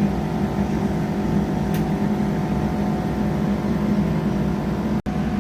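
Diesel multiple-unit train's engine running with a steady hum, heard from inside the passenger carriage. The sound cuts out for an instant near the end.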